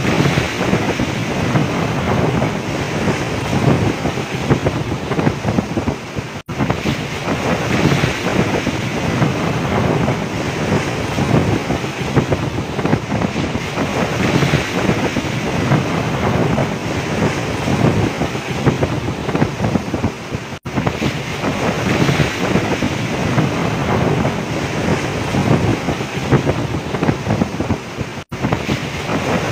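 Strong wind buffeting the microphone over rough sea, with storm waves breaking and washing against a fishing boat. The noise runs on unbroken except for three very short breaks.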